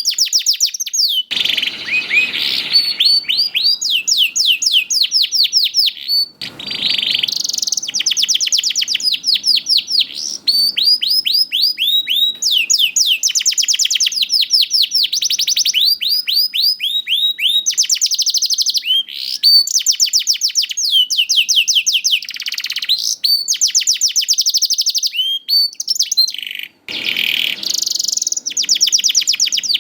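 Domestic canary singing nonstop in fast trills of repeated down-sweeping notes, switching to a new trill every second or two. A few brief noisy bursts sound underneath the song.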